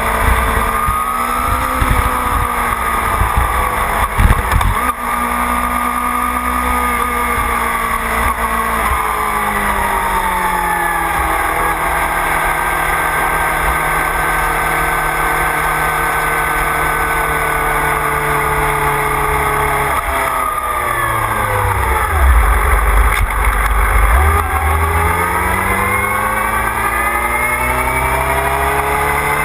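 Motorcycle engine heard from an onboard camera, its pitch rising and falling with the throttle. It holds steady for several seconds, drops sharply about two-thirds of the way in, then climbs again near the end, over a steady rush of wind.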